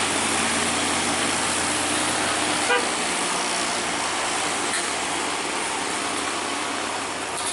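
Road traffic running close by: a steady, loud roar of engines and tyres with no single event standing out, and one short knock a little under three seconds in.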